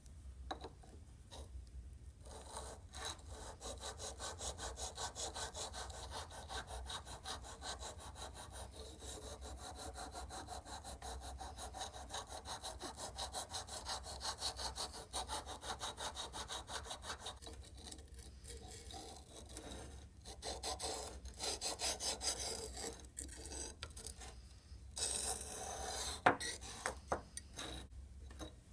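Quick, even back-and-forth strokes of a hand abrasive tool rubbing on the metal of antique grass trimmers, smoothing pitting and casting marks. The strokes pause briefly past the middle and come louder near the end.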